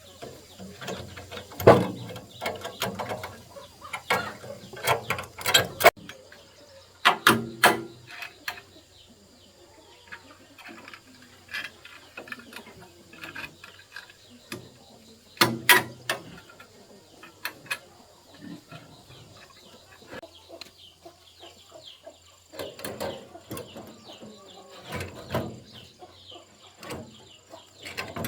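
Hand tools clanking and clicking on metal machine parts in irregular bursts, the loudest knocks about two seconds in, around five to eight seconds in, and around sixteen seconds in.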